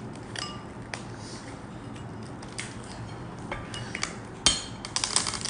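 Shell of a large sea shrimp's head cracking and snapping as it is pried open by hand: a scatter of sharp clicks and cracks, the loudest about four and a half seconds in, with several more near the end.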